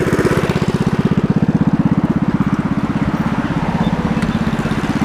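Minibike's small engine idling steadily, with a quick, even pulse.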